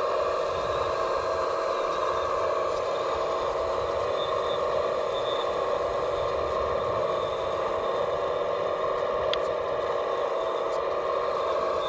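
Steady, unbroken whine of a radio-controlled construction model's electric motor running, with a single faint click about nine seconds in.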